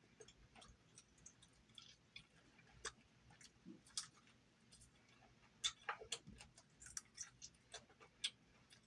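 Faint, irregular wet clicks and smacks of chewing, food being eaten with the mouth close to the microphone.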